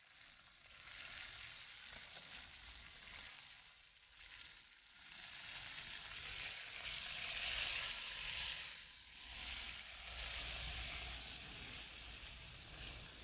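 Chicken pieces sizzling in a small camping pot on a camping stove while being stirred with chopsticks. The sizzle swells and fades, loudest a little past halfway.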